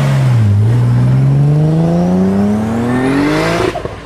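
Toyota Supra Mk4 straight-six engine accelerating hard: after a brief dip about half a second in, its pitch climbs steadily for about three seconds, then cuts off suddenly near the end.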